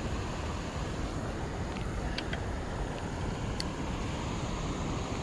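Steady rushing of creek water over small falls, with a few faint ticks about two and three and a half seconds in.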